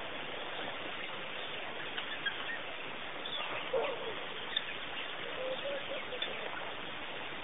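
A few short bird calls scattered over a steady hiss, the clearest about four seconds in.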